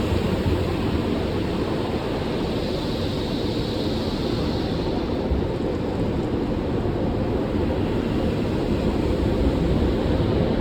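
Automatic tunnel car wash running: a steady rushing hiss of water and machinery over a deep rumble, with a brighter hiss swelling for a couple of seconds about three seconds in.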